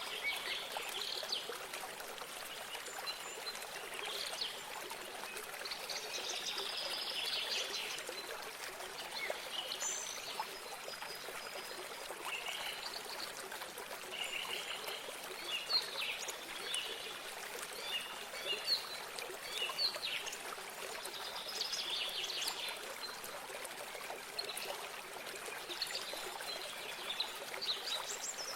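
A small stream of water trickling and running steadily, with birds chirping and singing over it in short, repeated phrases throughout.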